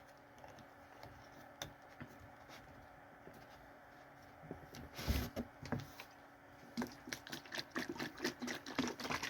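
A bottle of juice being shaken: a knock about halfway through, then quick, irregular knocks and rattles over the last couple of seconds. Quiet room tone before that.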